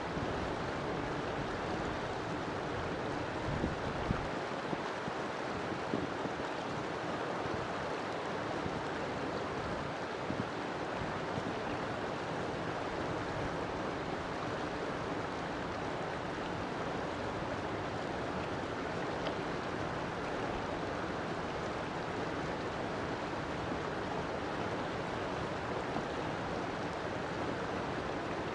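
River water flowing, a steady rushing wash with no breaks.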